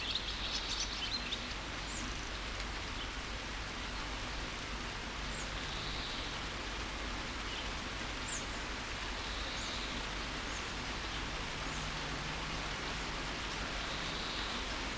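Steady rain falling in a forest, an even hiss, with birds chirping: a quick cluster of high chirps in the first second or so, then scattered single faint chirps.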